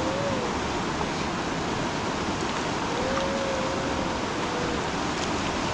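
Steady rushing of a flooded river, an even wash of water noise. A faint thin wavering tone sounds within it for about two seconds, starting about three seconds in.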